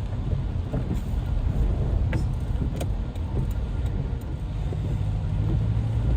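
Steady low rumble of road vehicle noise, with a few faint clicks about two to three seconds in.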